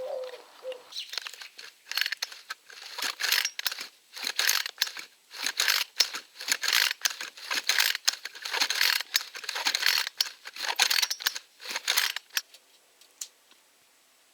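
Irregular clicking, rattling and scraping of a small plastic-bodied petrol chainsaw being handled and worked on, in quick uneven bursts that stop near the end.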